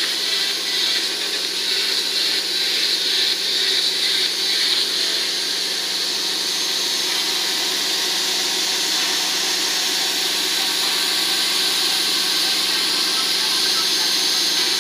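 Small DC hobby motor of a homemade cardboard table fan running, powered by a power bank: a steady motor whine with a constant low hum, slightly uneven for the first few seconds and then even.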